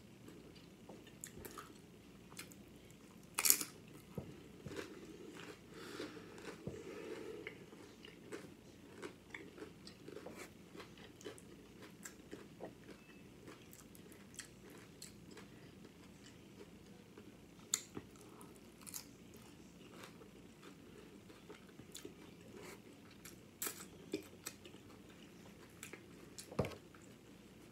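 Close-up chewing and crunching of Doritos nachos loaded with ground beef and shredded cheese, with scattered sharp crunches of the chips, the loudest about three and a half seconds in.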